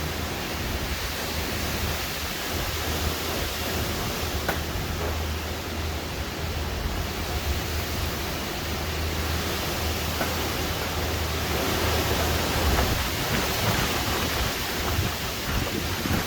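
Thunderstorm wind and rain making a loud, steady rushing noise, with a low rumble underneath.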